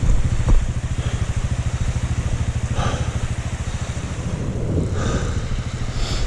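Single-cylinder 690 cc dual-sport motorcycle engine running with a steady, rapid pulsing beat on a rough mountain trail. There is a sharp knock about half a second in.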